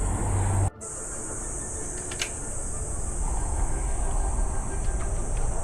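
Honda CBR400R parallel-twin running on the move, mixed with wind rumble and a steady high hiss. The sound drops out sharply for an instant about a second in, then the riding noise carries on a little lower.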